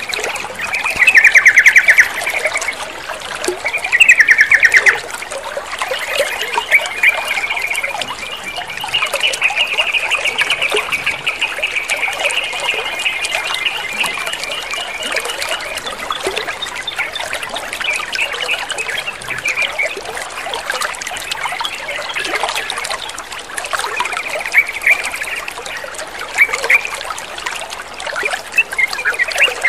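Sooty-headed bulbul calling over steady trickling water. Two short loud bursts of rapid chatter come in the first five seconds, then a run of fast chattering notes lasting about ten seconds, then scattered calls.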